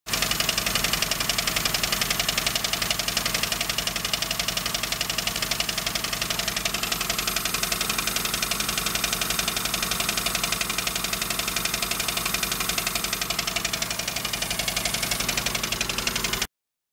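Toyota Tercel four-cylinder engine running with a fast, even rackety ticking from the top end. The owner suspects sticky valves or bad rocker arms, having ruled out an exhaust manifold gasket leak. The sound stops abruptly near the end.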